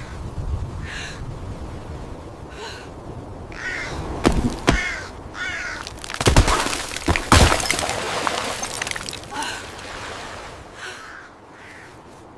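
A crow cawing repeatedly, with several loud, sharp cracks near the middle.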